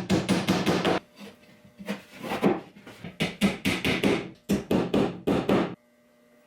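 Hammer driving nails into wood, in quick runs of blows about five or six a second, which stop abruptly near the end.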